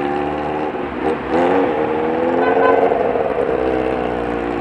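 Motorcycle engine running in traffic: its pitch drops briefly about a second in, then climbs as it revs up and eases back down.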